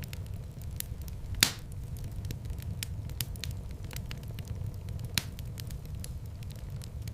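Wood fire crackling in a fireplace: a steady low rumble of burning with frequent small crackles, a loud pop about a second and a half in and another sharp snap about five seconds in.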